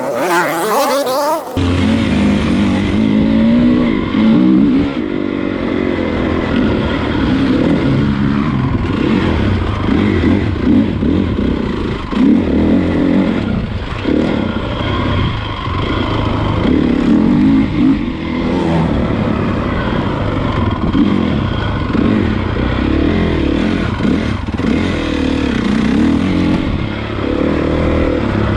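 Honda CRF450 motocross bike's single-cylinder four-stroke engine being ridden, revving up and falling back again and again as the throttle is worked. The engine sound starts about a second and a half in, after a brief different noise.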